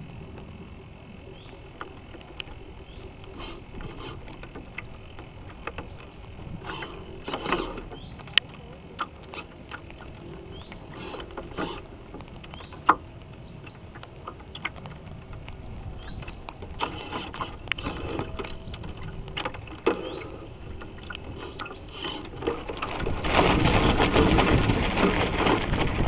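Sounds picked up by a radio-controlled sailboat's onboard camera: a low rumble with scattered small ticks and knocks, then near the end a loud rush of water and wind on the microphone as the boat gathers speed.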